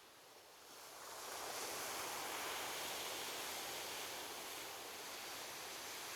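Ocean waves on a beach: after a brief lull, a wave breaks and washes in about a second in, then goes on as a steady surf hiss.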